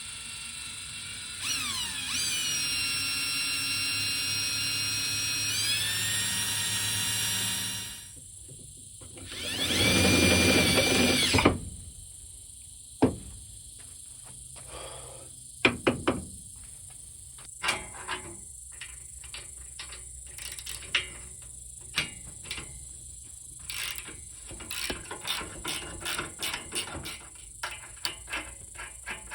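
Power drill spinning up and running steadily for about six seconds, then a second, louder and harsher run of about two seconds. After it come scattered clicks and knocks of parts being handled.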